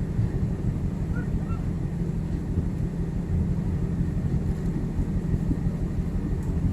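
Steady low machinery drone of a ship at anchor, the hum of its engines or generators, with no change throughout.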